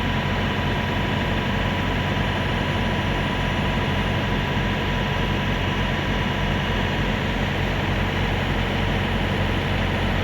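Heavy diesel engine idling steadily: a constant low drone with a faint steady whine above it.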